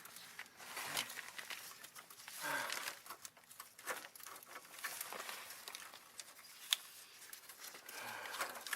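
Scattered clicks and rustling from hands working on plastic fuel lines and zip ties, with a brief low sound falling in pitch about two and a half seconds in.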